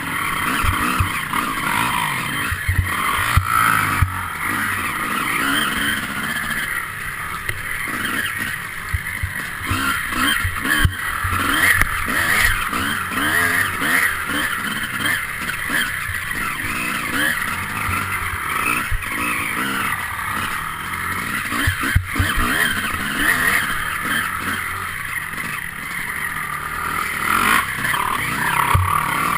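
Enduro motorcycle engine running hard and rising and falling with the throttle, as heard from a camera mounted on the bike, with the noise of riding over rough, muddy ground and occasional thumps from bumps.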